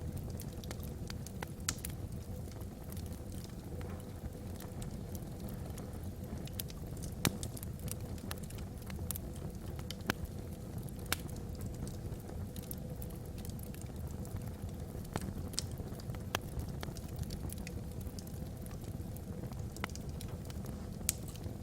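Wood fire burning in a fireplace: irregular sharp crackles and pops, a few louder than the rest, over a steady low rumble.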